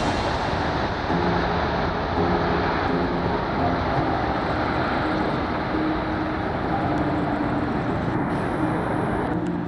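Airbus A340-300's four CFM56 turbofan engines at departure power, a steady jet roar, with faint background music underneath.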